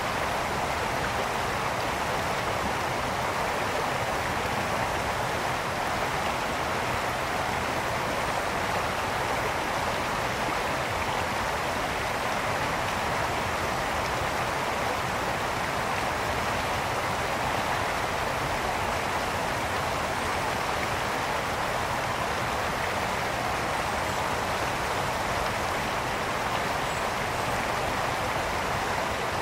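A mountain brook flowing, a steady rushing and babbling of water over stones.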